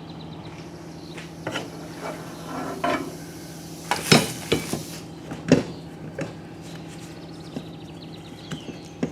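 A large 220-volt shop air compressor's electric motor running with a steady hum, while metal tools clink and knock. About four seconds in comes a brief hiss of air.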